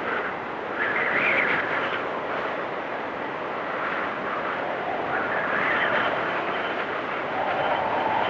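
Blizzard wind blowing steadily, swelling into higher-pitched whistling gusts about a second in and again around five seconds in, with a lower gust building near the end.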